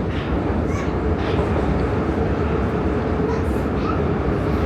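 Prague metro train running between stations: a steady rumble of wheels and running gear with a steady hum and a few faint, short wheel squeals.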